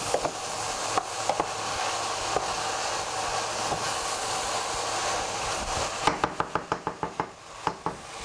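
Red cabbage, carrots and peppers sizzling steadily as they are stir-fried in a stainless steel frying pan. A wooden spoon knocks against the pan a few times early on and then in a quick run of taps, several a second, near the end.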